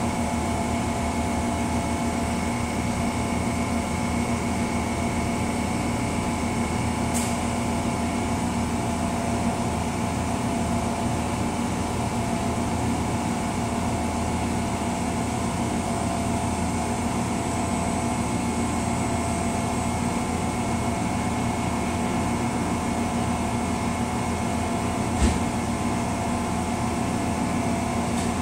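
Amtrak passenger train standing at the platform, a steady mechanical hum with several held tones from its air-conditioning and idling locomotive. A faint click comes about a quarter of the way in and a short low thump near the end.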